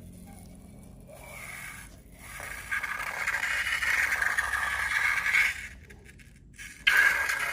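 Scraping from slime making, faint at first and louder from a little over two seconds in. It stops briefly near the end, then starts again sharply.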